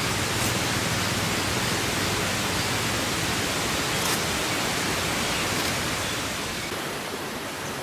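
Steady rushing water, an even hiss with no rhythm, easing slightly near the end.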